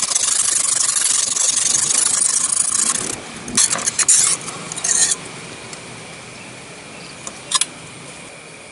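Sharpening stone on a guided-rod knife-sharpening jig scraping along a kitchen knife's edge: one long continuous scrape lasting about three seconds, then a few shorter strokes and a single click.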